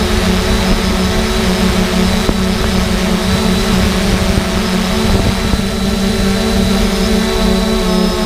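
3DR Solo quadcopter's electric motors and propellers running steadily, a loud multi-tone hum of its rotors, with a fluttering rumble of prop wash buffeting the on-board microphone.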